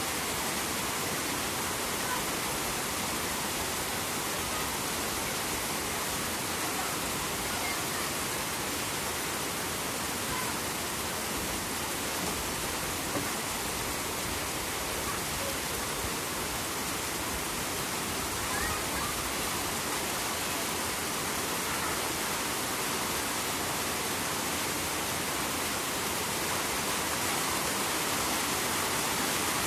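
Steady rain falling near a rushing river: an even, unbroken hiss.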